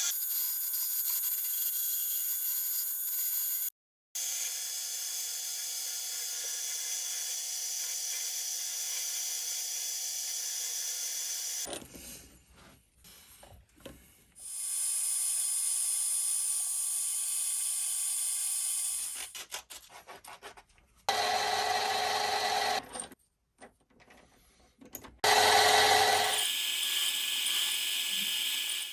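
Mini metal lathe running steadily, a hiss with several fixed whining tones, in a few clips that start and stop abruptly; in the short gaps between them there are only scattered small clicks.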